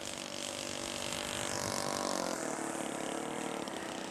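Radio-controlled scale model airplane's engine running as it comes in to land, its note dropping about halfway through.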